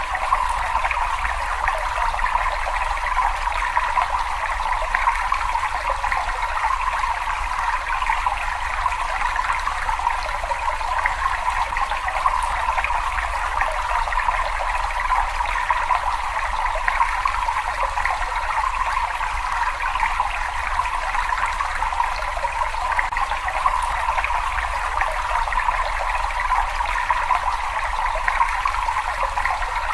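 Water running and trickling steadily in a cave, an even rushing hiss with a low rumble beneath, unchanging throughout.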